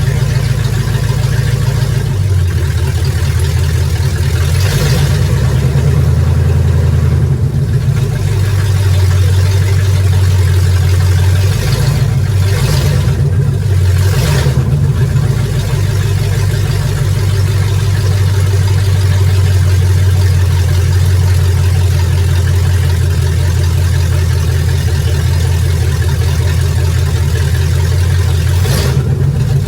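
Classic Ford truck engine idling loudly and steadily, with a brief change in its note a few times. It is running smoothly on a newly replaced fuel line, the suspected cause of its earlier stalling.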